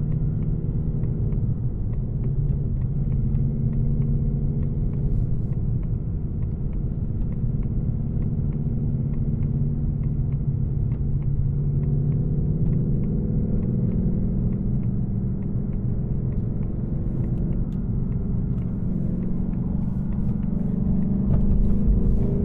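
2024 Mustang GT's V8 on its stock exhaust, running under way with a steady low rumble. Its pitch rises slowly through the second half, then climbs sharply near the end as the car accelerates.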